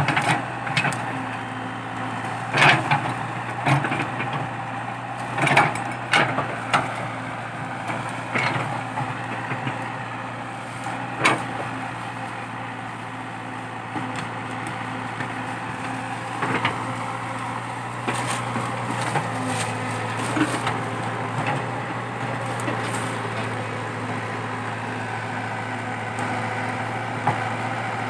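Komatsu PC80 excavator's diesel engine running steadily under load while digging out a eucalyptus stump, with a series of sharp cracks and knocks, most of them in the first dozen seconds, as wood and roots break.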